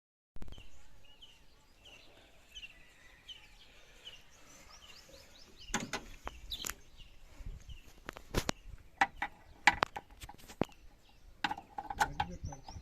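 A bird chirping the same short note about twice a second. After about six seconds come a series of sharp knocks and clicks.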